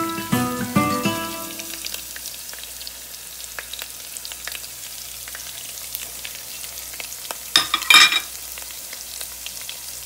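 Ginger-garlic paste and green chilies frying in hot oil, a steady sizzle with small crackles. About eight seconds in comes a short, louder surge of sizzling as ground spices are tipped into the oil.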